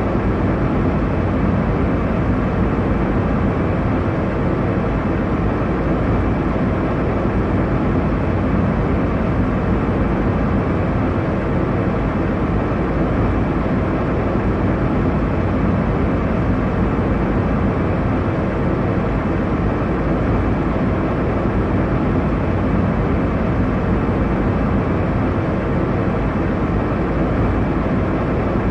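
Airliner cabin noise: a steady, even rumble and rush of engine and airflow noise in flight, heavy in the low end and unchanging.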